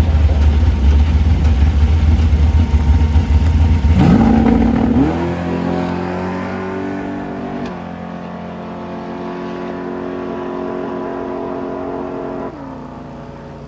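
Drag racing car engine rumbling loudly, then revving with a sharp climb in pitch about four seconds in and holding a steady high note. The note drops in steps twice and the sound grows fainter.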